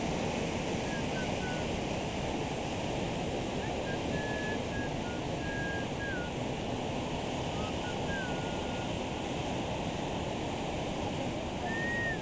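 Steady rush of the Sapta Koshi river pouring through the Koshi Barrage. Short, thin whistling notes sound over it now and then, some gliding down in pitch.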